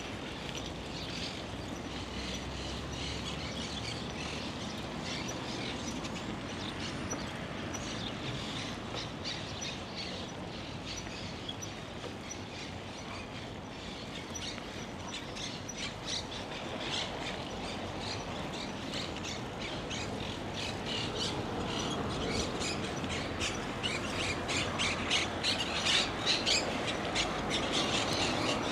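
Birds chirping and calling over a steady rushing noise, getting busier and somewhat louder in the second half.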